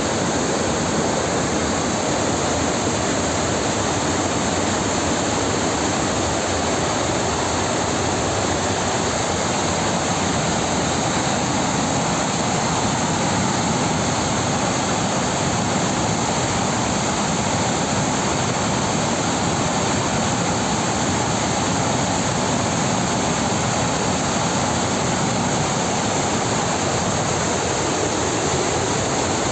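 Steady, loud rushing of fast-flowing floodwater, an even noise that does not change.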